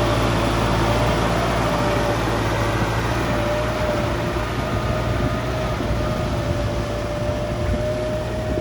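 Kubota tractor running steadily with its rotary tiller working the soil, a constant engine drone with a thin steady whine over it.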